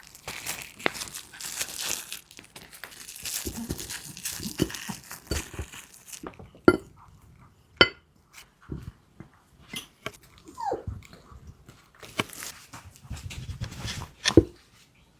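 Small Maltese dog eating its meal: dense crinkling and crunching for the first several seconds, then separate sharp clicks and knocks. About ten seconds in there is a short whine that falls in pitch.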